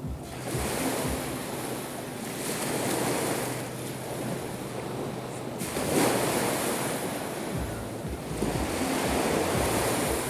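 Black Sea waves breaking on the shore and washing back, coming in surges every two to three seconds, the strongest about six seconds in.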